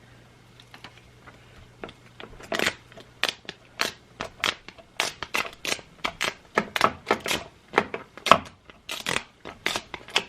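Plastic film and packaging from a screen-protector kit crinkling and crackling as it is handled and peeled. Irregular quick crackles start about two and a half seconds in.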